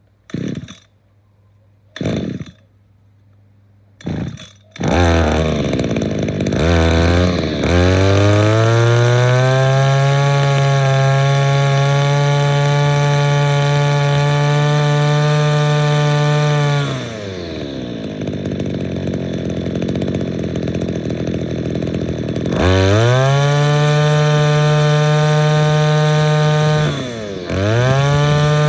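Gas string trimmer cold-started on choke after priming: three pulls of the recoil starter, catching on the third about five seconds in. It is held at high revs with the throttle squeezed, drops back to idle, then is revved up twice more.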